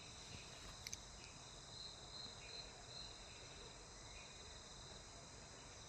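Faint, steady, high-pitched insect chorus of cricket-like trilling, with a single short click about a second in.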